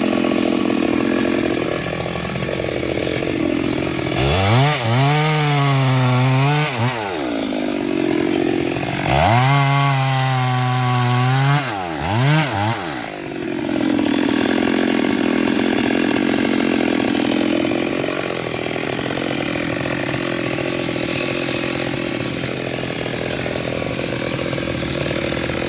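Stihl MS382 two-stroke chainsaw cutting into a sengon trunk, running steadily under load. Twice, about four and nine seconds in, the engine revs up to a high pitch for about three seconds, then drops back to cutting.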